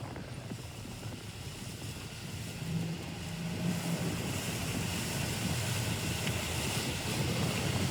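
Wind on the microphone and rushing water from sailing in big waves, with a steady low motorboat engine hum coming in about two and a half seconds in.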